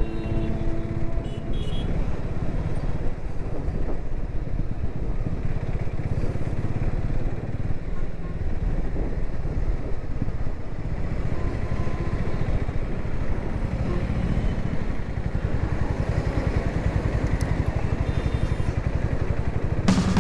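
Motorcycle engine running steadily while the bike is ridden along the road, a dense low pulsing sound that holds an even level throughout.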